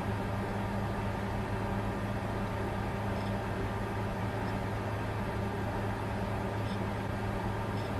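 Bitcoin mining computer running: a steady whir with a low hum underneath, unchanging throughout.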